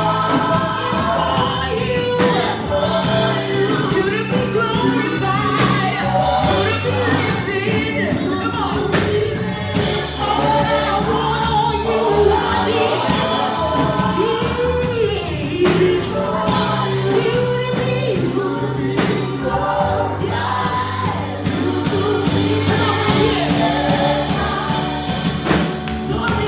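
Live gospel praise and worship music: a band with drums plays while singers carry the melody.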